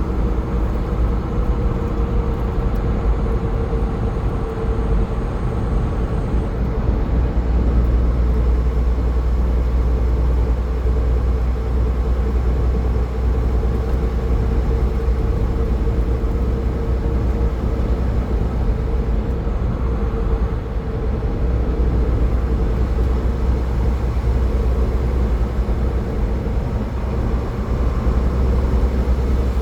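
Steady road noise of a car cruising on a highway: a deep, even rumble with a steady hum.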